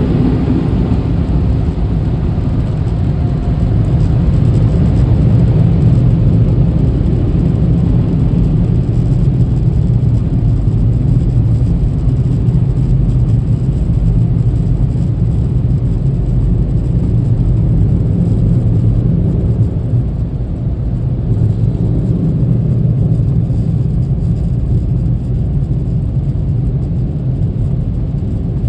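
Steady low rumble from inside a car, without words or distinct events.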